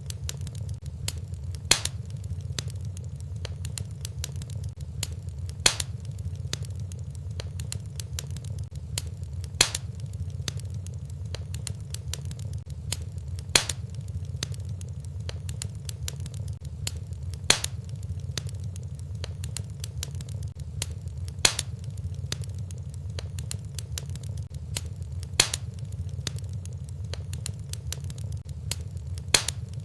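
Wood fire crackling in a fireplace: a steady low rumble under frequent small crackles, with a louder pop about every four seconds.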